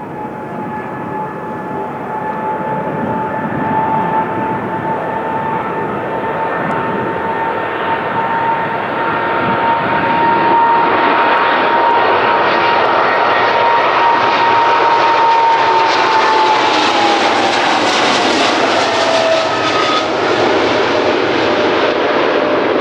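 A Boeing 777-200LR's GE90 turbofans at high thrust, the rushing jet noise growing steadily louder as the plane approaches. Around three-quarters of the way through, the engines' whine drops in pitch as the jet passes.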